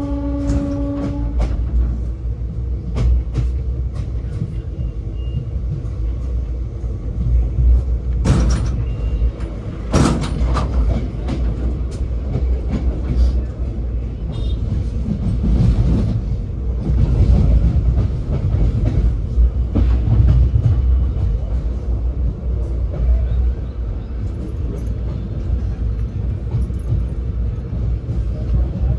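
Passenger train running on the track: a continuous heavy low rumble with scattered clicks and knocks of wheels over rail joints. A held horn-like note stops about a second in.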